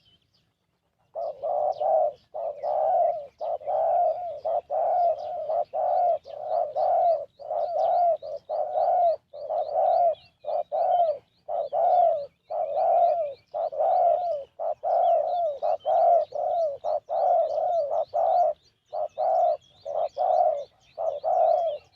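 Spotted doves cooing, one call after another in a near-continuous run that starts about a second in. A faint, quick series of high chirps from another bird runs above it.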